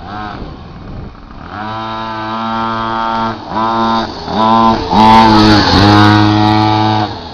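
Minibike engine revving under throttle, climbing in pitch and then holding, with brief let-offs of the throttle before its loudest stretch. It falls away sharply near the end.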